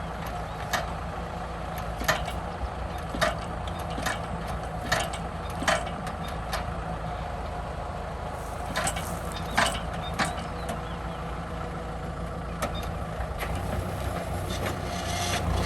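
Kubota M6040 SU tractor's diesel engine running steadily at the plow, with short sharp knocks at irregular intervals about once a second.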